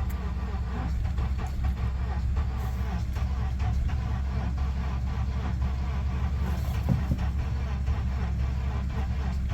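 A 2004 Honda Accord's starter cranking the engine over steadily with a fast, even pulsing, the engine not catching: a no-start.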